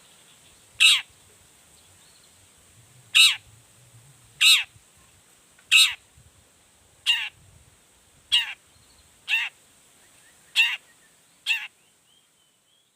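Long-tailed shrike (cendet) giving harsh, rasping calls, nine short strokes about a second apart, each sweeping downward in pitch. The bird is excited and agitated.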